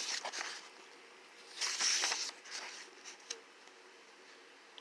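Paper rustling twice as book pages are turned and handled, with a few faint ticks between.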